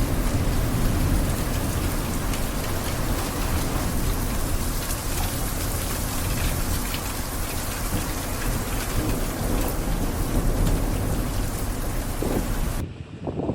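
Heavy rain pouring steadily, with many close drops pattering. The sound cuts off abruptly near the end.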